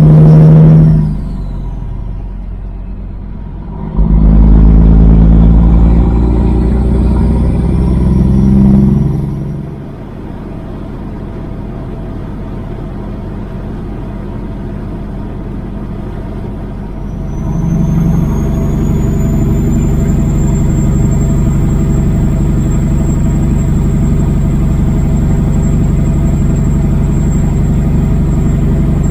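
Kenworth W900 semi truck's Caterpillar diesel engine running while driving, swelling and dropping several times with the pitch bending down and up as it pulls and eases off. It is loud at the very start, then from about four seconds to nine, then quieter for several seconds. It builds up again with a thin high whine at about eighteen seconds and holds steady.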